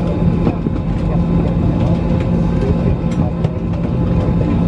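Steady airliner cabin drone: a low hum from the engines and air-conditioning, with a few steady tones in it and faint scattered clicks.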